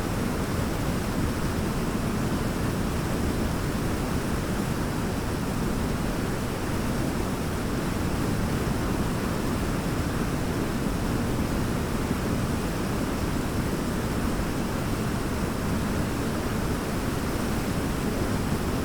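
Large waterfall with a steady, unbroken rush of falling water, heaviest in the low range.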